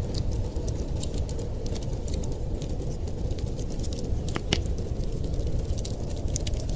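Wood fire crackling, with scattered sharp pops and two louder snaps about four and a half seconds in, over a steady low rumble.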